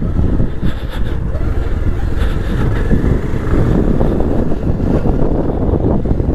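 Motorcycle on the move, its engine and the wind over the microphone making a steady low rumble.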